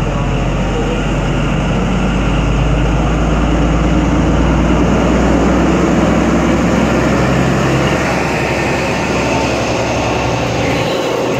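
An express train running through the station: a loud, steady rush of wheels and rail with a low traction hum. The sound eases a little about eight seconds in, and the low hum drops away near the end.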